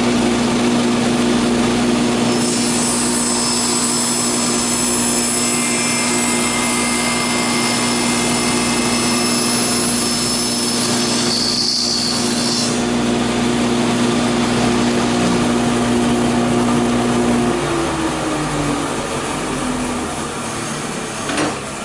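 Table saw with an 80-tooth blade running at speed and crosscutting the end of a piece of scrap wood, the cut taking about ten seconds from a couple of seconds in. Near the end the saw is switched off and the motor hum drops in pitch as the blade spins down.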